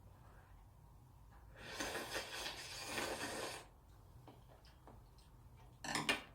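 Eating sounds: a noisy slurp of cup ramen noodles lasting about two seconds, then a short, sharp second slurp near the end.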